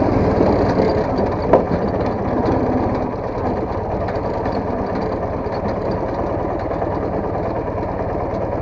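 Soviet motorcycle engine running, with one sharp knock about one and a half seconds in; the engine gets a little quieter about three seconds in.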